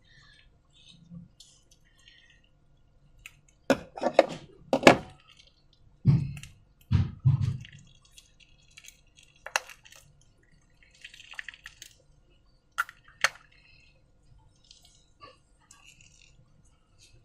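Slime being handled: irregular wet squelches and sticky clicks, loudest in a cluster about four to seven and a half seconds in.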